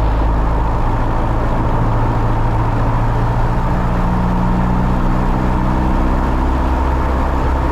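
Piper Cherokee 180's four-cylinder Lycoming engine and propeller running up on the ground, the throttle brought up toward 2,000 rpm for the magneto check. Its pitch rises a little a few seconds in and then holds steady. The engine is new and still in its break-in period.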